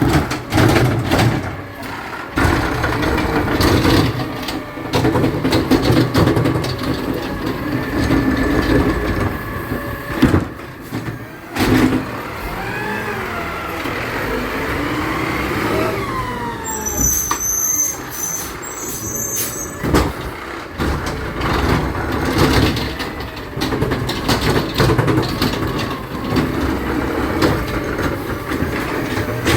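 Garbage truck engine running throughout, with sharp knocks at several points and a whine that rises and falls in pitch around the middle.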